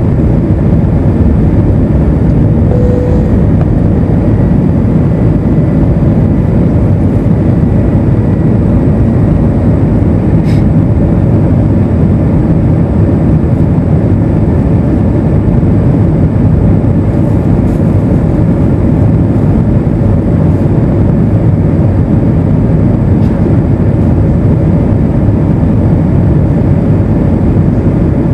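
Steady cabin noise inside an Airbus A320 airliner in flight: engine and airflow noise as a constant low rumble, with one faint click about ten seconds in.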